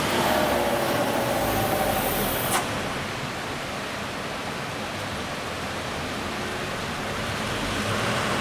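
Heavy rain falling, a steady hiss. For the first two and a half seconds a faint whine sits over it and cuts off abruptly with a click.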